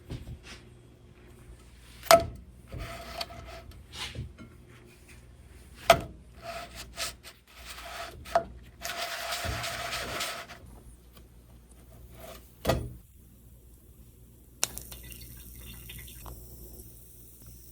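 Kitchenware being handled: several sharp clinks that ring briefly, spread over the first thirteen seconds. About nine seconds in, water runs for under two seconds. A steady faint hiss starts near fifteen seconds.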